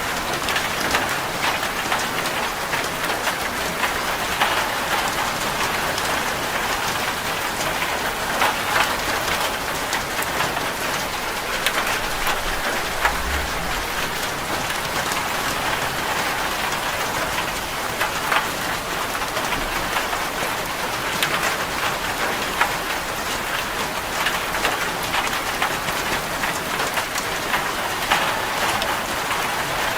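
Steady, dense rain drumming on a zinc corrugated metal roof, countless drops pattering as fine ticks over a constant wash.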